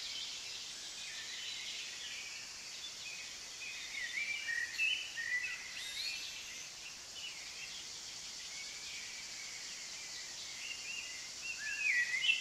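Small birds singing: quick warbling chirps, busiest about four to six seconds in and again near the end, over a steady high background hiss.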